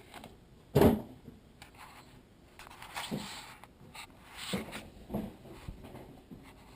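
A sharp knock about a second in, then rustling and a few softer knocks and creaks, like objects being handled indoors.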